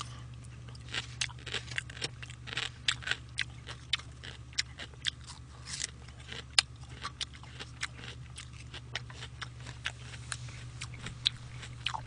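A person chewing mouthfuls of food close to a microphone: many small irregular wet clicks and crunches, over a steady low hum.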